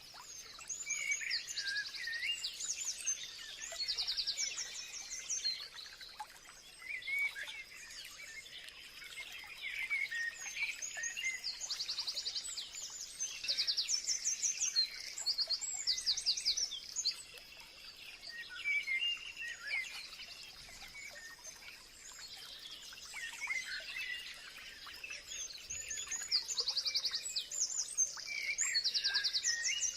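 Several songbirds singing and chirping, with bouts of fast, high trills that come and go about every ten seconds, over a faint steady high-pitched hum.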